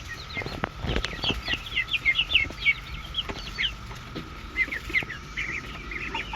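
Backyard hens clucking and trilling in quick, busy calls as they feed on cicadas, with a few sharp knocks in the first second or so. Underneath runs the steady high drone of a periodical cicada chorus.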